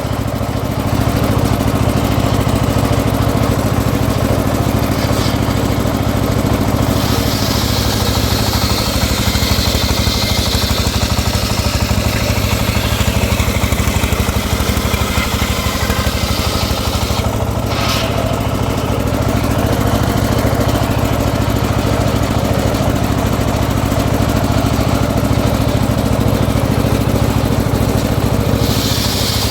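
Engine driving a homemade circular sawmill, running steadily. A higher noisy layer joins it from about seven seconds in, and there is one brief sharp sound about eighteen seconds in.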